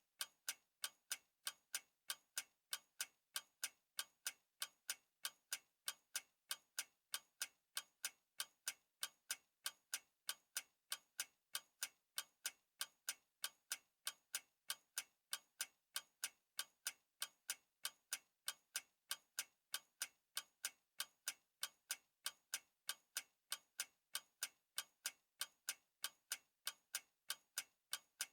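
Clock ticking: sharp, evenly spaced ticks, a few each second, in a steady unbroken rhythm.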